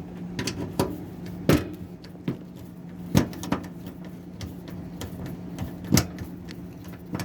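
Scattered clicks and knocks of hand tools and washing-machine parts being handled, with three louder knocks at about a second and a half, three seconds and six seconds in, over a steady low hum.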